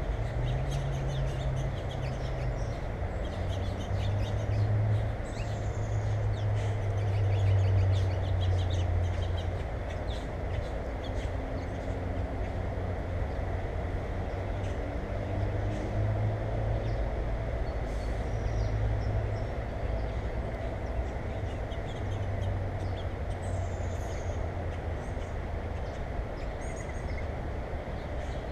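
Small birds chirping now and then, faint over a steady low rumble that swells about eight seconds in.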